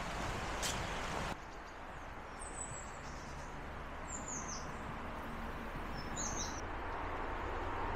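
Footsteps on a leaf-covered woodland path for about the first second, then, after a cut, a quieter steady outdoor rush. Over it a small bird gives three short, falling chirps, spaced roughly a second and a half to two seconds apart.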